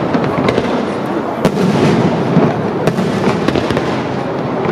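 Aerial firework shells bursting in quick succession: a continuous rumble and crackle, with sharp bangs standing out about one and a half seconds and three seconds in.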